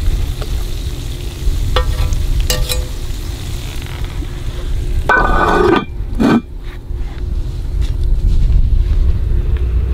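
Cornmeal-battered rattlesnake frying in hot oil in a pan over a campfire, a steady sizzle. A couple of short metallic clinks come about two seconds in, and a louder brief clatter about halfway through, over a low wind rumble on the microphone.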